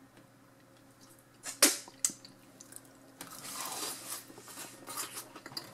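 Close-up mouth sounds of a person eating a forkful of soft fries with fried onions and mayonnaise: a couple of sharp clicks about one and a half to two seconds in, then wet, irregular chewing from about three seconds in.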